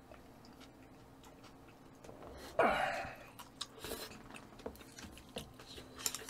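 Close-up mouth sounds of someone eating raw tuna: faint chewing and small wet clicks, with one louder breathy mouth sound a little over two and a half seconds in.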